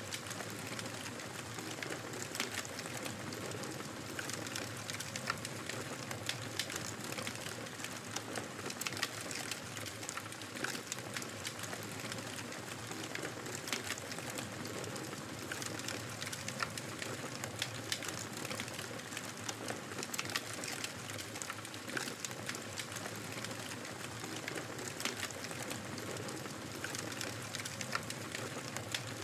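Fire crackling in a fireplace: a steady soft hiss dotted with many small, irregular pops and snaps.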